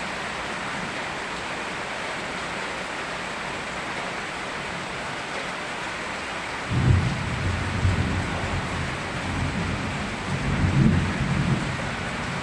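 Steady rain, with a low rumble of thunder that starts suddenly about seven seconds in, swells again twice and fades out near the end.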